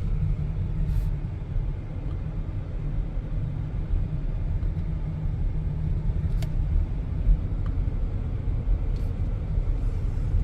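Steady low rumble of a car being driven, heard from inside the cabin, with a few faint ticks.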